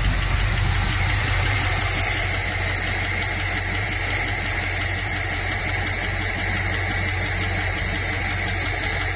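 1978 Chevrolet K5 Blazer's carbureted small-block V8 idling steadily on the fast-idle cam while it warms up, running smoothly.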